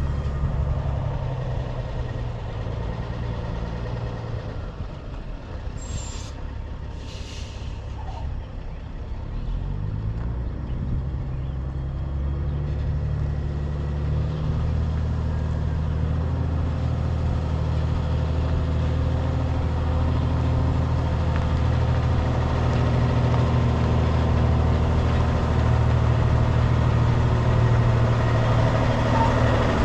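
Semi truck's diesel engine running as the rig gets under way, with two short air hisses from the air brakes about six and seven seconds in. The engine then rises in pitch as it pulls away and settles into a steady, louder run.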